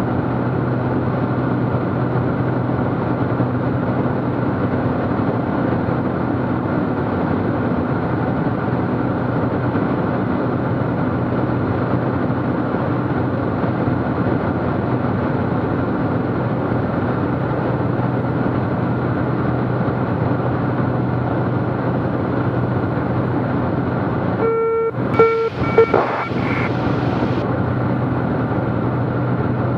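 Steady drone of a Cessna T210's turbocharged six-cylinder engine and propeller in cruise, heard inside the cockpit. About 25 seconds in, a brief cluster of short tones and clicks cuts in for a couple of seconds.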